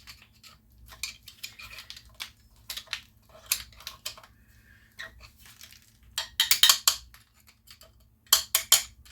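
Metal engine parts and hand tools clinking and knocking as a small Tecumseh engine is worked apart by hand. There are scattered clicks throughout, with two louder flurries of rapid rattling clicks about six and eight seconds in.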